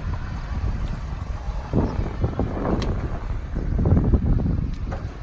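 Wind buffeting the phone's microphone: a low rumble that swells in gusts about two seconds and four seconds in.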